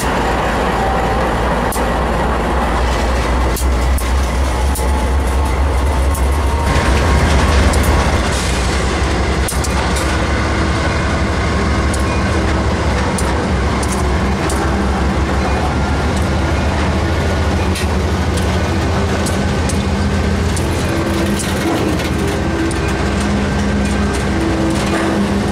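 Union Pacific double-stack intermodal train passing close by. The diesel locomotives' engines rumble loudest in the first eight seconds or so, then the well cars roll past with steady wheel noise and repeated clicks over the rail joints.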